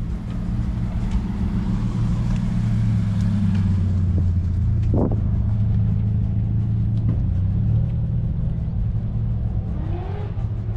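A car engine running steadily with a low, even rumble that swells slightly in the middle and then eases.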